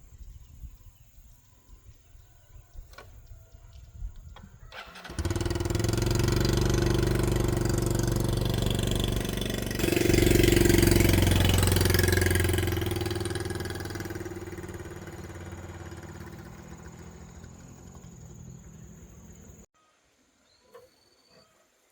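Electric motor of a rice-milling machine switched on: a loud, steady hum that comes in about five seconds in, swells about ten seconds in, then fades and stops suddenly near the end. The owner says this machine will not get going properly and trips the circuit breaker.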